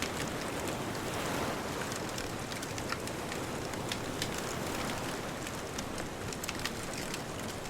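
Wood bonfire crackling, with many sharp pops scattered throughout, over a steady hiss of distant ocean surf that swells briefly about a second in.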